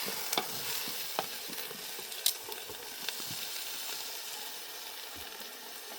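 Food frying in a pan with a steady sizzle, broken by a few sharp clicks, about one a second, in the first three seconds.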